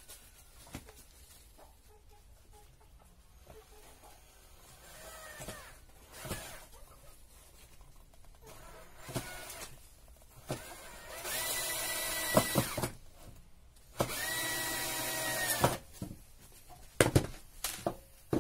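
Cordless drill driver running twice, about a second and a half each time, its whine rising as it spins up and dropping as it stops, as it drives screws into pallet-wood boards being joined into a hive box. Between and after the runs there are knocks and clatter of wood being handled, with a few sharp knocks near the end.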